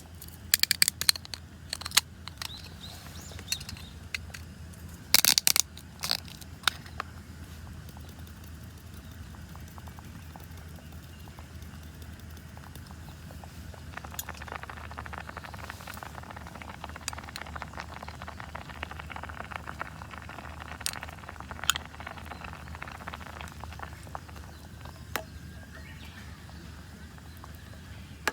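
A run of sharp clicks and knocks of handling at a camp, then a long stretch of fine, dense crackling that builds up about halfway in and dies down near the end.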